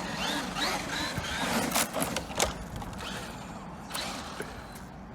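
Electric RC monster truck's motor whining in quick rising bursts as it accelerates, with a couple of sharp knocks around two seconds in. The sound then fades away.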